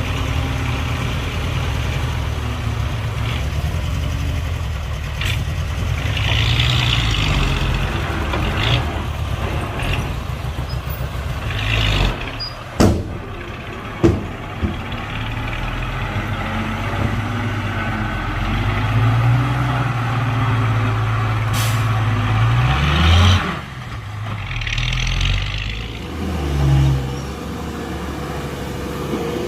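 Heavy diesel engines of a bulldozer and dump trucks running, with several short air-brake hisses. Two sharp knocks come about halfway through, and an engine revs up and drops back about three-quarters of the way in.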